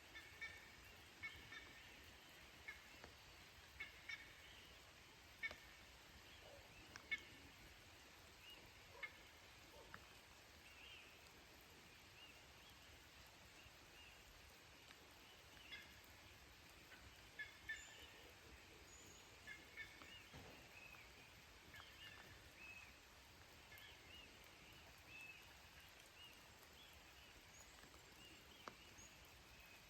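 Faint, scattered short bird chirps over a quiet hiss, with a few sharp taps in the first third.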